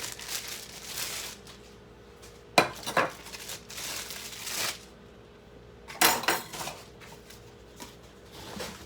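Metal cookware and silverware being handled and set down: scattered clinks and rattles, with two louder clanks about two and a half seconds and six seconds in.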